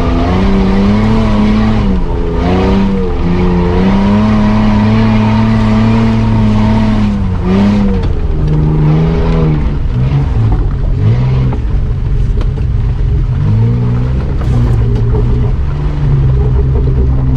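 Mitsubishi Pajero's engine revving hard while driving through mud off-road, its pitch rising and falling over and over, heard from inside the cab.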